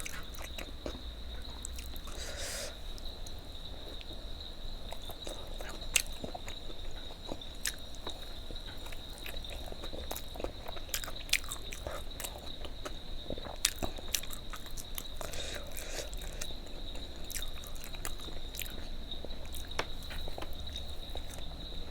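Close-miked biting and chewing of food, with scattered small crunches and mouth clicks, over a steady high-pitched whine.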